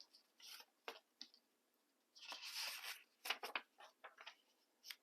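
Faint paper handling: sheets of paper rustling, with a longer rustle about halfway through and a few quick light clicks and taps just after.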